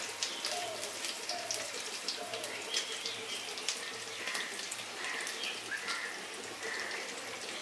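Onion, capsicum, garlic and green chilli frying in oil in a wok on a gas burner: a steady sizzle with scattered crackles.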